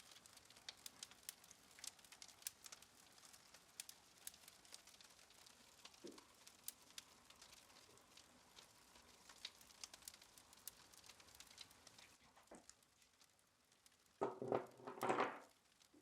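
Faint fire crackling: scattered sharp pops and snaps over a quiet background, with one brief louder sound near the end.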